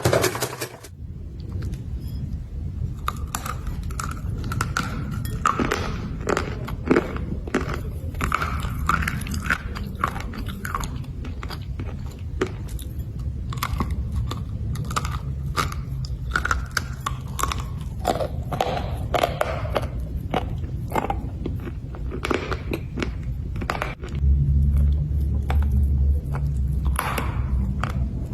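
Black slate bars being bitten and chewed: many sharp, irregular crunches and clicks of hard, brittle stone breaking between the teeth. A low rumble runs underneath and grows louder near the end.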